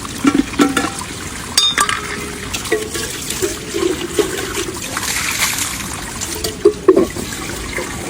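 Water splashing and being poured, in irregular splashes with a few sharp knocks.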